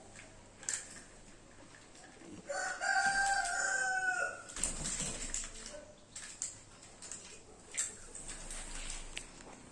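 One long bird call, about two seconds, held on a steady pitch and dropping at the end, a couple of seconds in; a few faint clicks around it.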